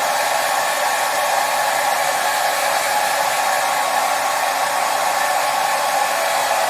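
Hair dryer running steadily, a constant airy whoosh with a faint motor hum and no change in speed.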